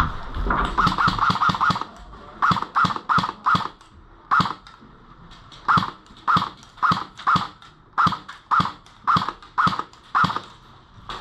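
Airsoft guns firing single shots in quick succession: a rapid run of about five shots a second, then a string of sharp shots at about two a second.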